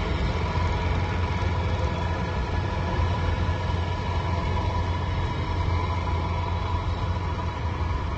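Engine of a rice-harvesting machine running steadily: a deep, even hum with a faint steady whine above it.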